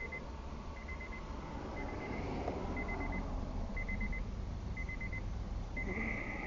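A 2004 Acura RSX's dashboard warning chime beeping about once a second, each beep a short high warble, over the low, steady sound of the car's four-cylinder engine idling.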